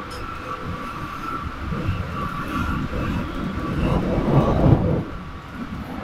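Running sound of a Keikyu 1500 series electric train at speed, heard inside the passenger car: the rumble of wheels on rail with a steady high tone over it. The rumble swells about four seconds in, then drops back.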